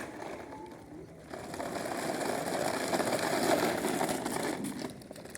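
A small electric motor and its gears whirring: it starts about a second in, builds for a couple of seconds, then dies away near the end.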